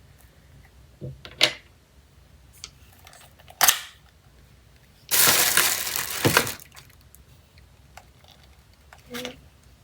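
Handling of a camera and its accessories: a couple of sharp clicks, then a noisy burst of handling sound about a second and a half long.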